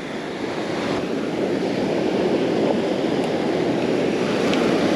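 Gulf surf washing up on the beach: a steady rushing noise that slowly swells.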